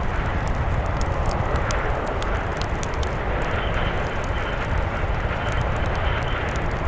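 Blizzard wind blowing steadily with a deep rumble, over a wood fire crackling with scattered small sharp pops.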